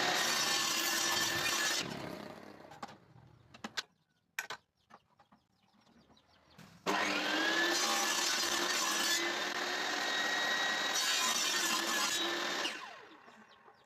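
Electric power saw cutting wood: a run that winds down after about two seconds, a few light knocks, then the saw starts abruptly at about seven seconds, its pitch rising briefly, runs steadily for about six seconds and winds down.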